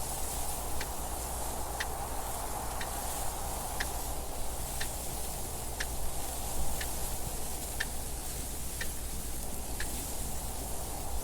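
A clock ticking steadily, about one tick a second, over a continuous rushing wind noise.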